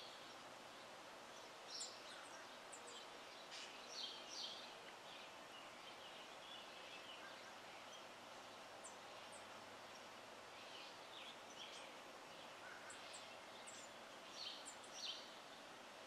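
Faint short, high chirps and chips of small birds in scattered clusters, the busiest about four seconds in and near the end, over a steady outdoor hiss.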